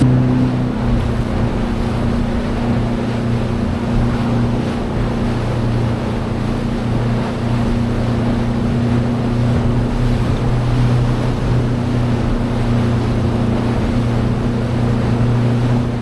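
Small boat's outboard motor running steadily under way, with wind on the microphone and the rush of choppy sea around the hull.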